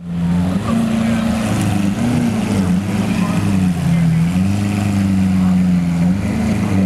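Car engine running at low revs, a steady hum whose pitch drifts slightly up and down.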